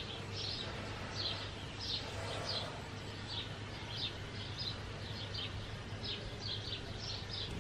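Small birds chirping repeatedly, short high notes a few times a second, over a faint steady low hum.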